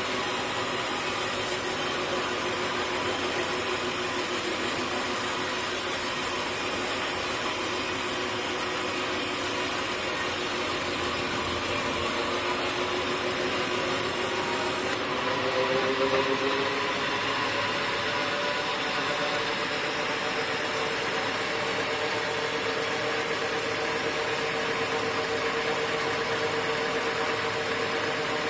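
Sawmill machinery running steadily, with a steady hum whose pitch rises slightly about halfway through, when it briefly gets louder.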